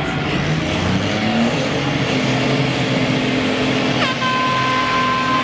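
Off-road truck engines running hard at high revs, one climbing in pitch about a second in. About four seconds in a steady horn-like tone starts and holds.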